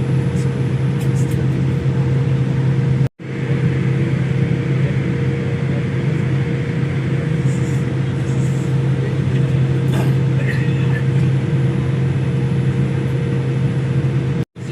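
Steady low drone of an airliner cabin, engine and air-conditioning noise with a constant hum over it. It cuts out briefly twice.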